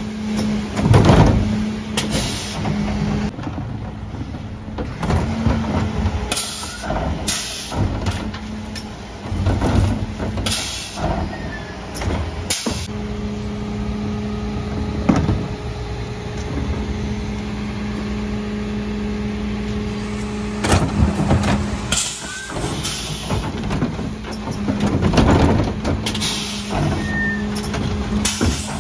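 Mercedes-Benz Econic refuse truck working, its engine running with a steady hum that comes and goes through the second half. Repeated knocks and short sharp hisses of air are heard throughout.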